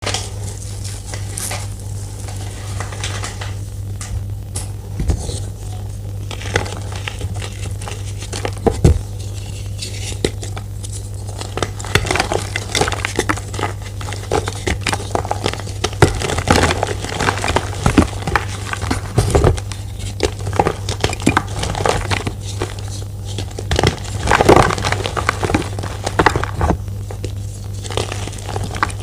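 Crumbly reformed gym chalk blocks, white chalk pressed together with orange holi powder, being crushed by hand: dry, crunchy crackling and snapping in irregular bursts, busier from about halfway, over a steady low hum.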